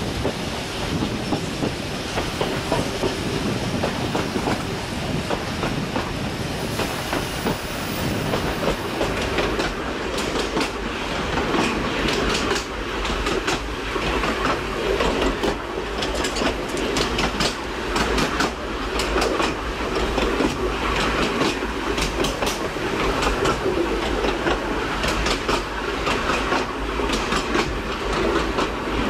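Steam-hauled passenger train of carriages running along a country branch line: a steady rumble with rapid clicking of the wheels over the rail joints, which becomes sharper and more distinct about ten seconds in.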